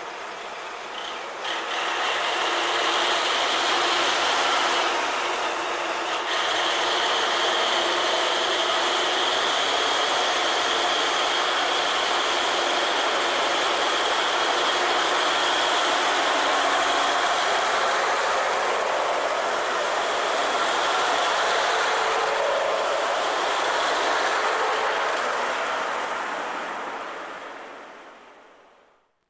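A train running close by on the rails: a loud, steady rush of running noise with a thin high whine through much of it. It fades away near the end.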